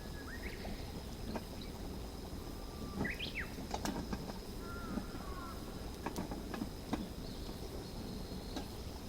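Small birds chirping now and then, with several sharp clicks and knocks scattered through, over a steady low background rumble and a thin, steady high tone.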